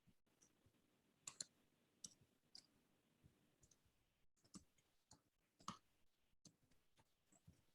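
Near silence with faint, irregularly spaced clicks.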